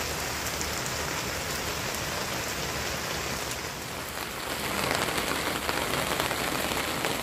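Rendang sizzling as it is reheated on a hot pan: a steady crackling hiss that grows louder about halfway through.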